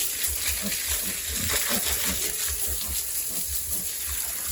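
Water spraying and splashing while a pig pen is washed down, a steady hiss with many light clinks and knocks against the pen.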